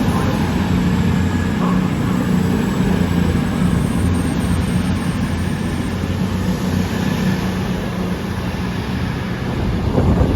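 A train in the station running with a loud, steady low drone and rumble, which eases slightly towards the end and drops away just after.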